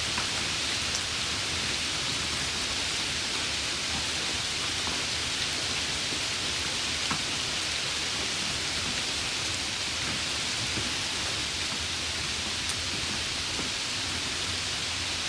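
Steady rain falling: an even hiss of rain with a few sharper single drops ticking here and there.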